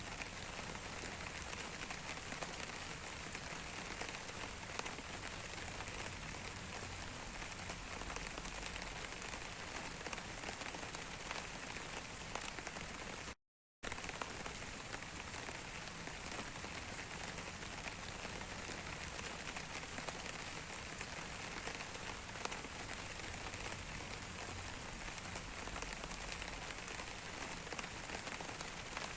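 Steady rain falling on a surface, a dense even hiss with many small ticks of individual drops. About halfway through, the sound cuts out completely for half a second, then resumes as before.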